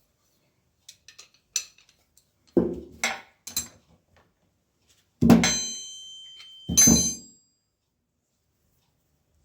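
Metal parts knocked and clinked together on a hard surface: a few light clicks, three knocks, then two loud clanks, the first ringing on for about a second.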